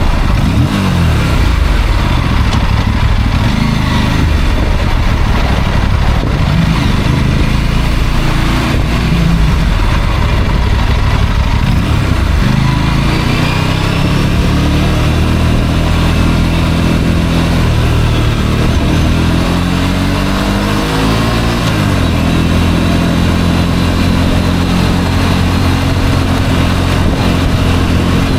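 Motorcycle engine running under way, the rider's own bike, with uneven engine note at first, then steadier cruising, and its pitch rising as it speeds up twice, once about two-thirds through and again at the end.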